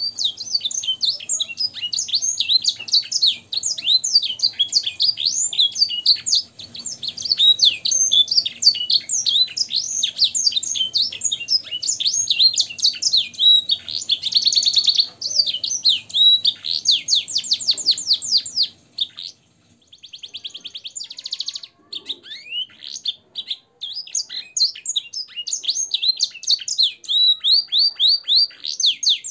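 Domestic canary singing a long, fast song of rapid high sweeping notes and trills, its repertoire filled with blackthroat and edel sanger phrases. The song breaks off briefly about 19 seconds in, then resumes in shorter phrases.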